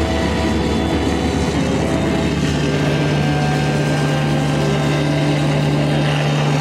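Live band playing a loud, droning wash of sustained notes with no singing; the low held note steps up in pitch about two and a half seconds in.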